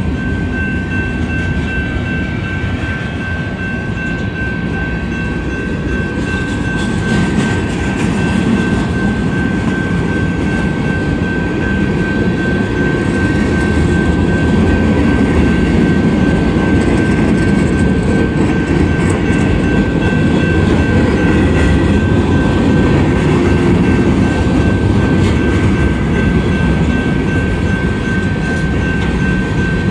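Freight cars of a long Union Pacific manifest train rolling past at low speed, a continuous rumble of wheels on rail with some clacking, slowly growing louder. A steady high tone runs throughout.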